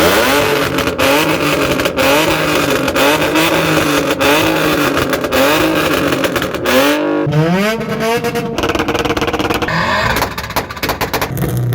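Car engine revved hard and held at high revs, its pitch wavering up and down, as in a burnout. About seven seconds in the revs dip, climb quickly again and hold steady, then fall off near the end.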